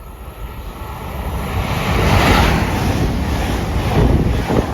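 LNER Class 801 Azuma electric train running through the station at speed, a rushing roar of wheels and air that swells over the first two seconds and stays loud. Wind buffets the microphone.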